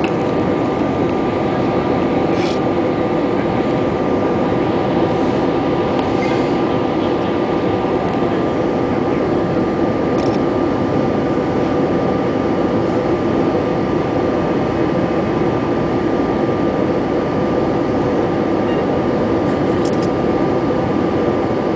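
Steady jet-airliner cabin noise: the engines and the rush of air along the fuselage, heard from inside the passenger cabin, with a thin steady whine above it and a few faint ticks.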